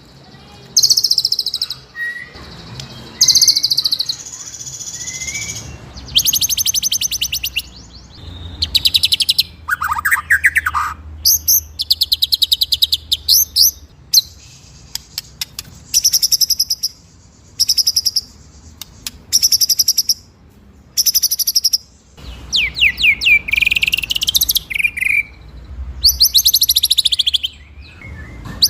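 White-rumped shama (murai batu) singing a long run of loud, high-pitched phrases: fast rolling trills and sharp single notes in quick bursts with short pauses, with a few lower falling whistles mixed in.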